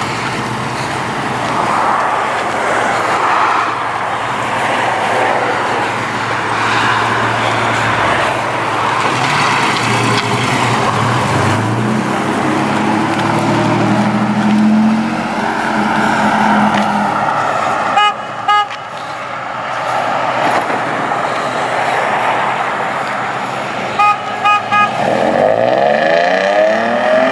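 Car engines running, with short car-horn beeps: two quick toots about two-thirds of the way through and three more shortly after, then an engine revving up near the end.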